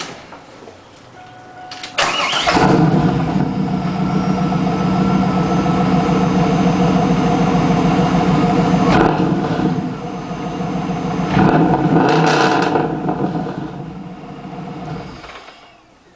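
Camaro Z28's V8, with a Borla turbo-muffler exhaust, cranks and starts about two seconds in and runs at a fast idle. It is revved briefly around the middle and again a few seconds later, and is shut off shortly before the end.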